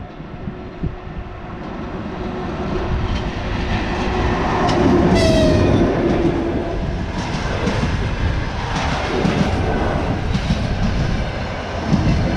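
Passenger train hauled by an EP1 electric locomotive approaching and passing close by. The rumble grows to its loudest about five seconds in as the locomotive goes past, with a brief high-pitched tone at that moment. Then the coaches roll by with their wheels clicking over the rail joints.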